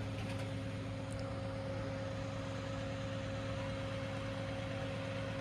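Scania crane truck's engine running at a steady speed: an unchanging low hum with a steady higher tone above it.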